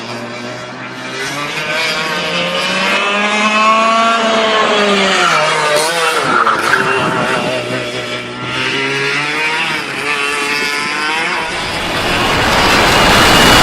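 Easykart 125 kart's two-stroke 125 cc engine running on track, its revs rising and falling. The revs drop sharply about six seconds in, then climb again. A second or two before the end, a loud rushing hiss takes over.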